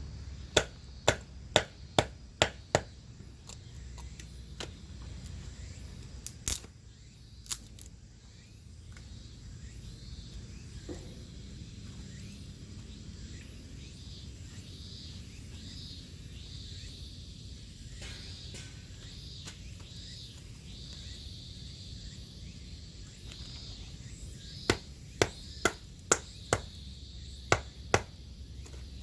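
Series of sharp chopping strikes, as of wood being chopped or split with a blade. The strikes come in two bursts of several blows about half a second apart, with a long pause between.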